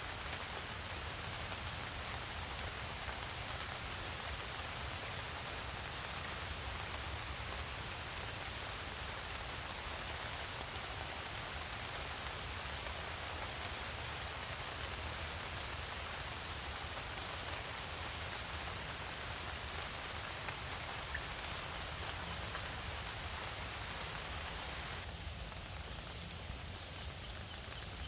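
Steady rain falling, an even hiss of drops. Near the end the sound turns thinner and quieter in the middle range.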